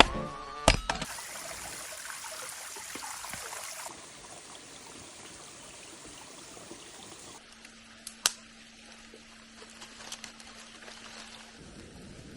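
Running stream water, a steady hiss, with a sharp knock about half a second in and a single click near the middle.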